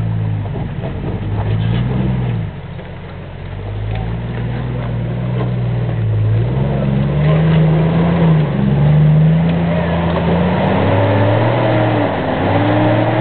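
Jeep Grand Cherokee ZJ engine revving up and down under load as the truck crawls over rocks, its pitch rising and falling with the throttle. It eases off briefly about two and a half seconds in, then works harder and higher in pitch in the second half.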